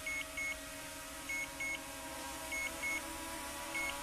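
Drone remote controller beeping: pairs of short high beeps repeating about every second and a quarter, over a faint steady hum.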